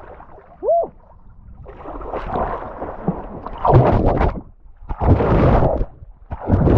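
Water splashing and sloshing right at the microphone in a series of loud surges, about one every second or so, as the swimmer moves through the water.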